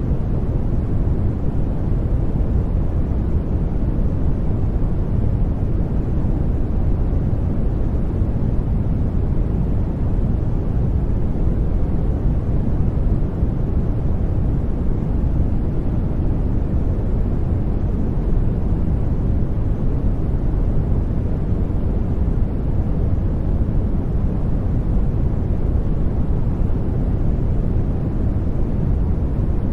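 Steady, unchanging sleep noise of the deep, dark kind, most of it a low rumble-like hiss with little treble.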